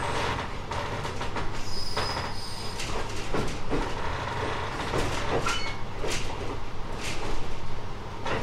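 Running sound inside a JR 719 series electric multiple unit: a steady rumble with irregular wheel clacks over rail joints and points, and a short high wheel squeal about two seconds in.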